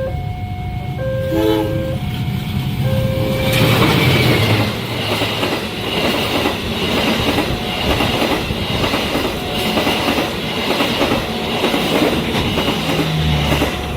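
A level-crossing warning alarm sounds its alternating two-note tones. About three and a half seconds in, a train reaches the crossing and passes at speed: a loud rush of wheels on rail with a rhythmic clickety-clack over the rail joints and a high steady squeal, as the alarm carries on faintly underneath.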